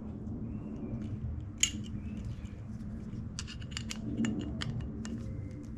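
Light clicks and taps of small metal carburetor parts being handled and fitted by hand, with one sharper click about one and a half seconds in and a quick run of clicks a little later, over a steady low hum.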